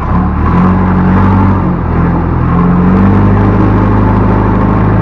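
Backhoe loader's diesel engine revving up suddenly at the start and running loud at high revs, its pitch shifting up and down as the machine works.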